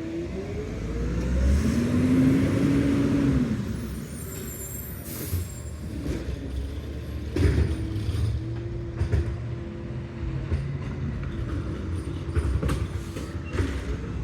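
McNeilus ZR rear-loader garbage truck working: its engine hum rises and then falls in pitch, followed by a steady hum with a run of sharp knocks and clanks.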